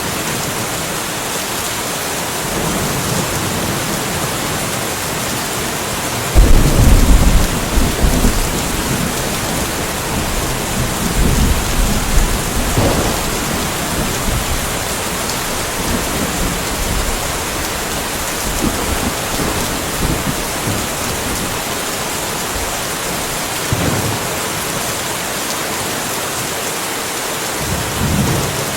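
Steady rain falling, with thunder: a sudden loud crack and low rumble about six seconds in that rolls on for a few seconds, and fainter rumbles later.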